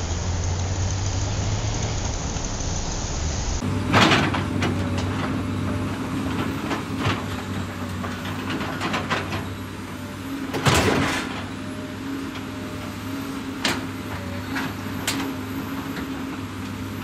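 Plastic toys handled by hand: scattered clicks and knocks of hard plastic pieces, the loudest about four seconds in and again near eleven seconds, over a steady low hum. The first few seconds hold only a steady hiss.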